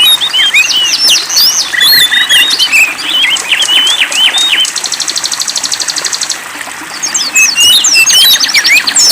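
Songbirds singing and chirping densely, with quick high whistled notes sweeping up and down and rapid buzzy trills, one held for nearly two seconds midway.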